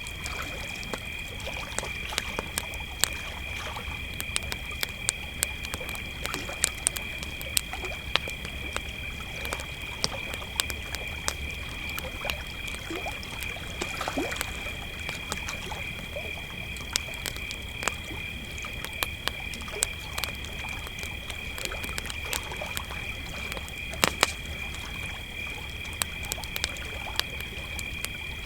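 Crickets trilling in a steady, unbroken chorus over a crackling wood campfire, whose snaps and pops come irregularly, with a louder pop about three seconds in and another near the last few seconds.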